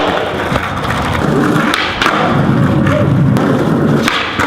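Skateboard wheels rolling on pavement with a steady rumble, broken by several sharp clacks and thuds of the board striking the ground during flat-ground kickflip attempts.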